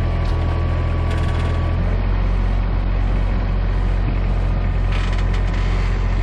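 Tractor engine running steadily under a grapple at work, with creaking from the implement. A thin steady whine sounds over the engine for about the first two seconds, and a brief hiss comes about five seconds in.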